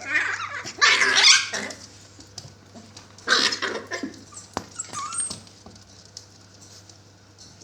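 Puppies squealing and whimpering in two loud, scrambling bursts, the first at the start and the second about three seconds in, with a short whine about five seconds in: the excitement of litter mates jostling to suckle.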